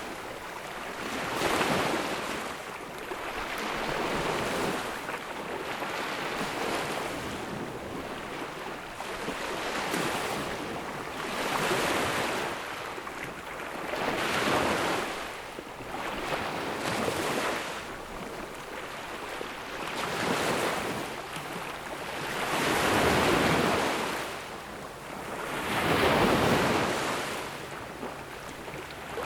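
Small sea waves breaking and washing up a sandy beach, one swell of surf every two to three seconds, the two largest near the end, with a steady hiss of wash between them.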